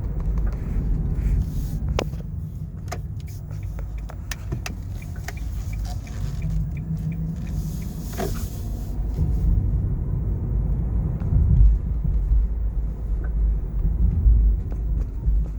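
Cabin noise of a Nissan Leaf driving: a steady low road rumble with a number of short sharp clicks and knocks in the first half. The knocks come with acceleration and deceleration and are blamed on the drive shaft, a known Leaf fault for which only re-greasing is offered.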